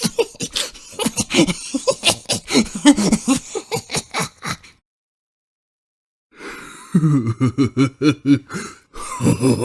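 Two short vocal sound-effect clips, a person's voice in quick rhythmic bursts, separated by about two seconds of dead silence.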